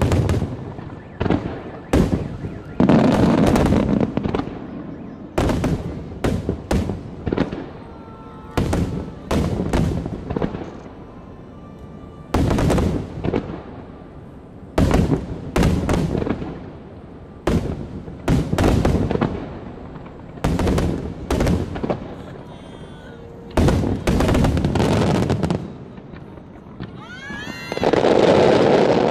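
Wide starmine fireworks barrage: aerial shells bursting in rapid volleys of loud bangs, each followed by echoing rumble. Near the end, rising whistles sound among the bursts.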